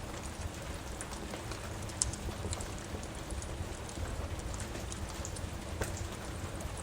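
Steady rain with a low rumble underneath, and scattered sharp crackles and pops from a wood fire.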